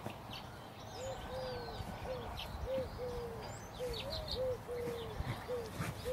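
Soft cooing in a steady series of short and longer coos, about two a second, starting about a second in, with small birds chirping above it.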